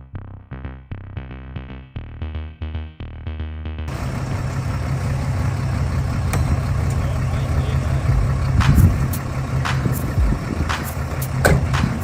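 A muffled, evenly pulsing rhythm for the first four seconds, then a truck engine running steadily, with a few sharp knocks about nine and eleven seconds in.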